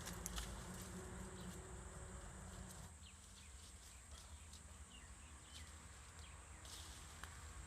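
Faint outdoor ambience: a steady high-pitched insect buzz, with scattered light clicks.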